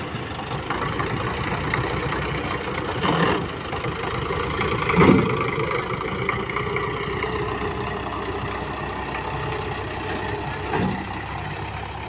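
HMT 5911 tractor's diesel engine running at a steady idle, with a few short louder moments.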